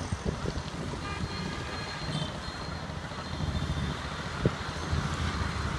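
Wind buffeting the microphone in gusts, over the distant steady noise of a SpiceJet Boeing 737-800 airliner's jet engines on approach to land.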